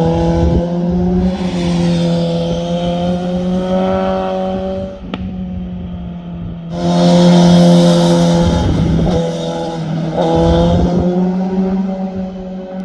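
Sport motorcycle engines running hard at high revs through corners. The engine note eases off about five seconds in and swells again about two seconds later, with one sharp click in between.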